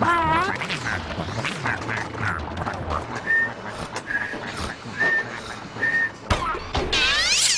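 Cartoon sound effects from a TV channel ident: a wavering, falling cartoon animal call at the start, then four short high beeps about a second apart, then a warbling run of swooping up-and-down tones near the end.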